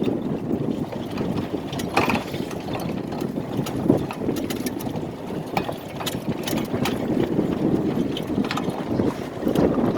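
An engine running steadily, with scattered clicks and rattles over it.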